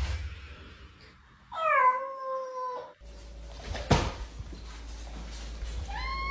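A cat meowing: one drawn-out meow starting about a second and a half in, a sharp click near four seconds, and a second meow beginning near the end.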